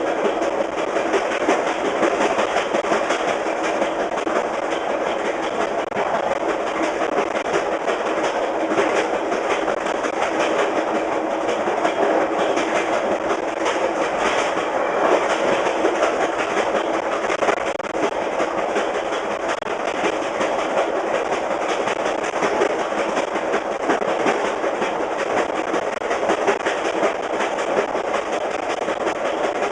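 VIA Rail passenger train running fast on jointed rail, heard from the rear of the train: steady wheel and rail rumble with a continuous, quick clickety-clack of the wheels passing over the rail joints.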